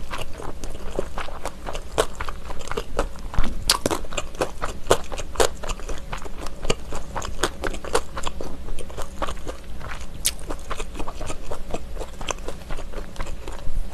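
Close-miked eating of kimchi stew: wet chewing with a steady, uneven run of sharp mouth clicks and crunches as a mouthful of kimchi and ham is chewed.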